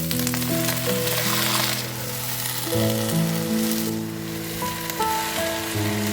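Food frying in hot oil in a pan: a steady sizzle, with background music playing.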